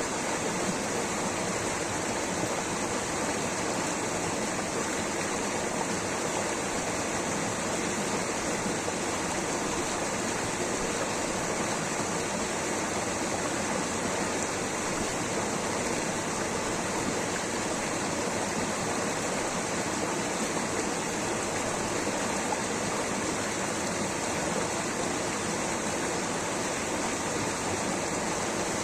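Water rushing steadily, an even, unbroken roar of falling and flowing water.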